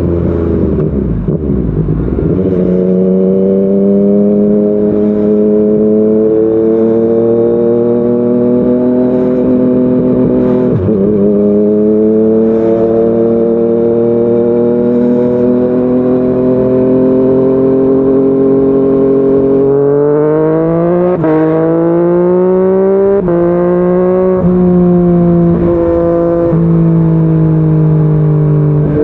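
Yamaha MT-09's three-cylinder engine through a Yoshimura R55 slip-on exhaust, pulling steadily under way with its pitch slowly rising for most of the stretch. About two-thirds through it revs up hard, with a few quick upshifts that each drop the pitch sharply, then eases off with the pitch falling.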